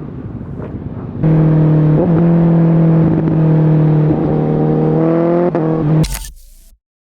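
Honda CBR1000RR Fireblade's inline-four engine through a Shark Factory aftermarket exhaust, quieter at first. It comes in loud about a second in and holds steady revs for several seconds, rising slightly near the end, then fades and cuts out to silence.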